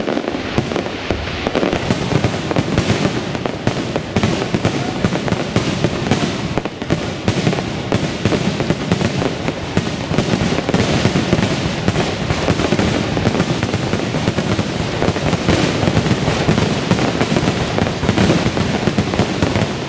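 Fireworks going off in a dense, unbroken stream of crackles and pops.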